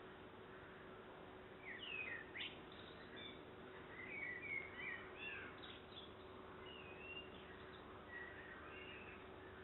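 Faint songbird song: scattered short chirps and whistled notes in several clusters, over a steady low hum and hiss.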